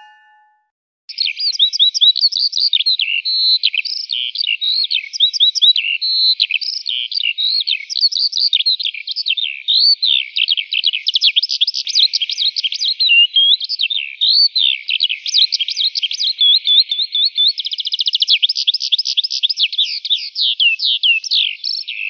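Bird chirping and whistling in a continuous, rapid, high-pitched warble of rising and falling notes with quick trills, starting about a second in.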